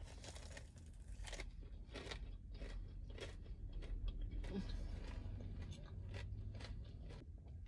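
Biting into and chewing a Korean corn dog coated in crispy ramen noodles: irregular crisp crunches of the fried noodle shell while chewing.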